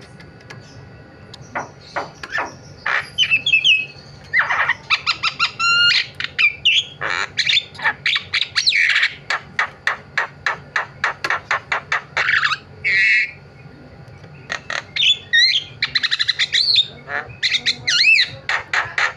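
Javan myna singing a varied song of harsh squawks, chattering clicks and short bending whistled phrases, with a long run of rapid repeated sharp notes in the middle.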